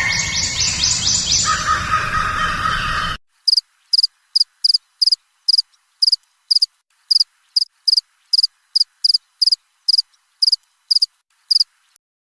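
Recorded cricket chirping played as a phone ringtone: about twenty short, high chirps at an uneven pace. Before it, about three seconds in, a louder sequence of electronic tones cuts off suddenly.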